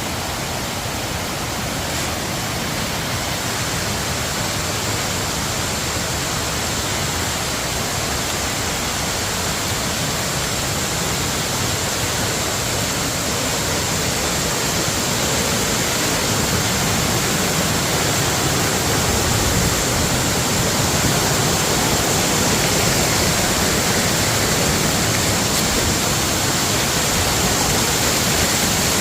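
Waterfall in heavy monsoon flow, a steady, unbroken rush of falling water that grows a little louder about halfway through.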